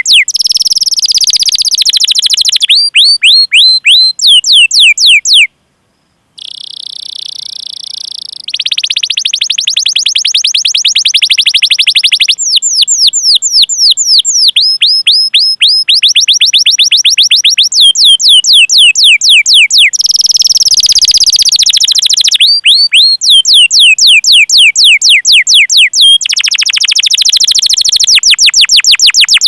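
Domestic canary singing: runs of fast, repeated downward-sweeping chirps (the 'cuit cuit' call) alternating with dense rolling trills. The song breaks off briefly about five seconds in, then comes back quieter before the full song resumes.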